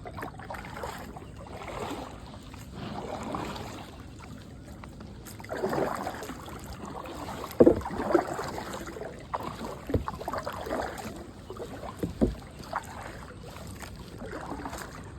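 Kayak paddle strokes swishing through the water every two to three seconds, with a few sharp knocks around the middle.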